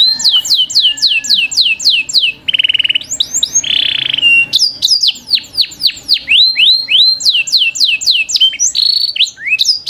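A songbird singing loudly and energetically: a fast run of downward-sweeping whistles, repeated many times, broken about a quarter of the way in by a short rapid trill and a buzzy note.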